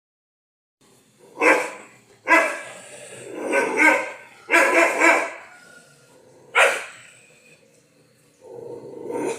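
Kanni dog barking: a string of loud barks, some in quick pairs, followed near the end by a softer, lower sound.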